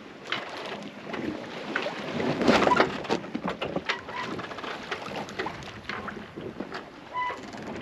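Sea water splashing and rushing around a sailboat at sea, with wind buffeting the microphone; the loudest surge comes about two and a half seconds in.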